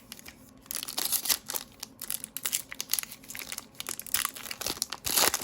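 Foil trading-card pack wrapper crinkling and tearing as it is ripped open by hand, in irregular crackly bursts that grow louder near the end.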